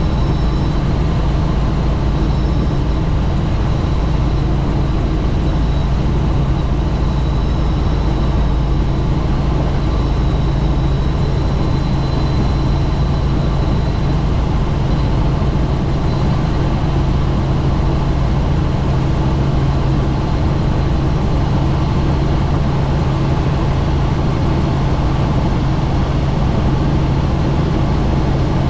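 Helicopter in flight, heard from on board with the doors off: a loud, steady drone of rotor and engine mixed with wind noise, with a faint high whine over it.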